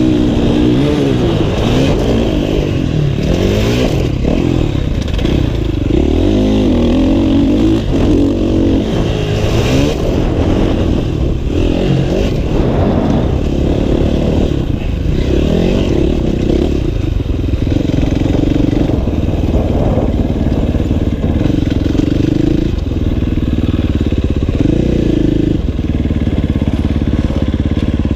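Motocross dirt bike engine revving hard around a track, its pitch climbing and dropping again and again as the rider shifts gears and throttles on and off, with short held steady stretches in between.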